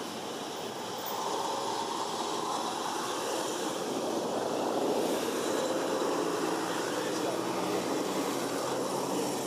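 Steady background noise with a faint engine hum, growing a little louder about a second in.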